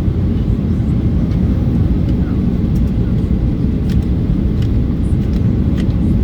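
Steady cabin noise of a Boeing 737-800 airliner heard from a window seat: a constant low roar of the engines and rushing air, with a few faint small clicks or rattles.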